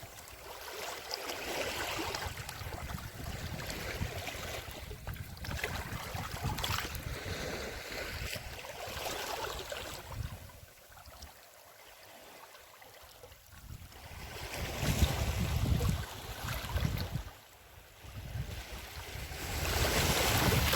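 Sea surf washing on the shore, swelling and fading, with wind buffeting the microphone.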